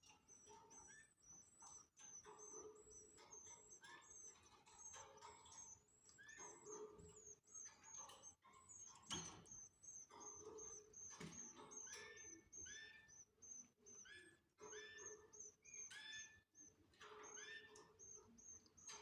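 Canaries chirping faintly: a rapid string of short, high chirps throughout, mixed with repeated lower call notes.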